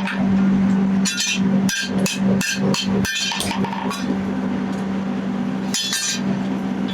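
Hammer blows on steel, about eight irregular sharp strikes with a bright ring, over a steady low hum.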